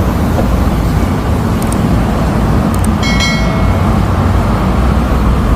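Loud, steady road traffic rumble, with a brief high-pitched tone about three seconds in.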